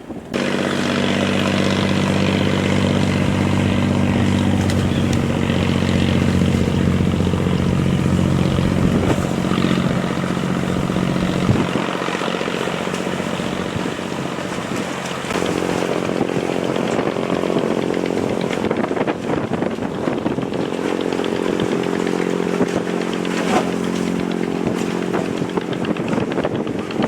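A boat's engine running loud and steady close to the microphone, its note changing about halfway through.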